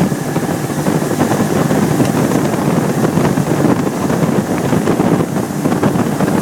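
A motorboat running under way, with a loud, steady rush of wind and water buffeting the microphone.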